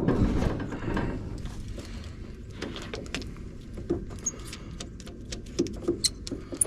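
Scattered light clicks and clanks of hand work at a 1970 Dodge D100 pickup as it is readied for a cold start. A run of quick ticks comes through the middle, with a few sharper clicks near the end.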